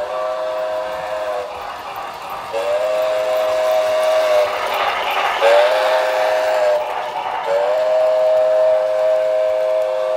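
Model locomotive's horn blowing four blasts of a steady two-note chord: long, long, short, long, the grade-crossing signal. A rushing running noise swells under the third blast.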